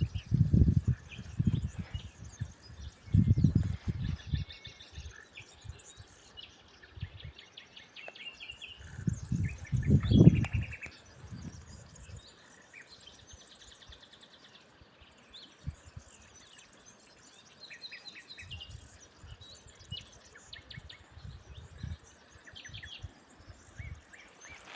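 Several songbirds chirping and calling throughout. Loud low rumbling bursts come in the first half, the strongest about ten seconds in.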